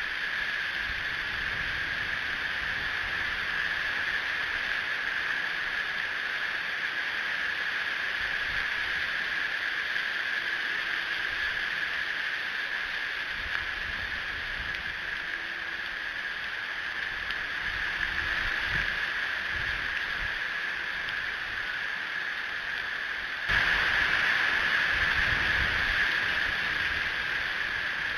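Strong wind gusting over an outdoor nest-camera microphone: a steady hiss with an uneven low rumble, getting abruptly louder near the end.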